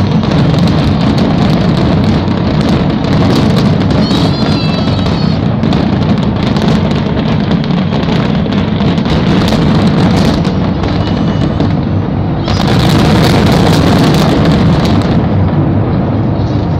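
Fireworks grand finale: a dense, continuous barrage of booms and bangs over a low rumble, swelling into a louder burst of crackling about thirteen seconds in.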